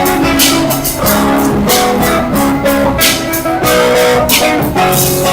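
Music played on guitar: strummed chords and held notes over a steady rhythm.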